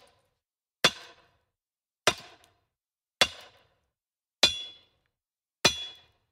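A series of sharp, evenly spaced strikes, about one every 1.2 seconds, five in all, each dying away quickly; the last two ring with a bright metallic tone.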